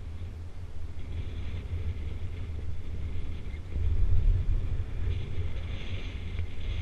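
Wind buffeting the microphone: a steady low rumble that swells in a gust about four seconds in.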